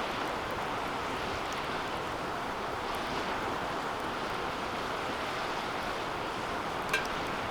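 Wood fire burning in a DOD Mecha-moe Fire 2 metal fire pit: a steady rushing hiss with faint scattered crackles. About seven seconds in comes one sharp metallic ping with a short ring, the 'kan-kan' clink of the heated fire pit.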